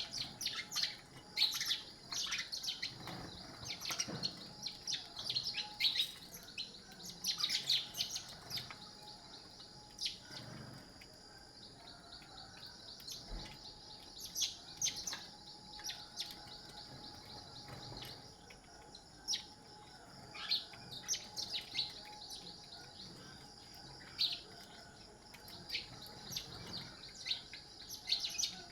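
Birds chirping: many short, sharp calls in quick clusters, coming and going, over a steady high-pitched background.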